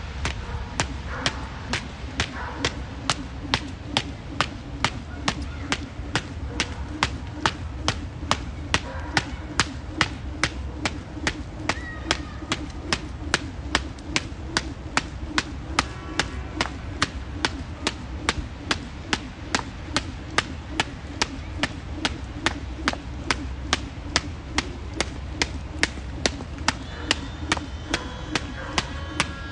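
A 1 lb weighted jump rope slapping the ground on each turn, a sharp even rhythm of about two strikes a second.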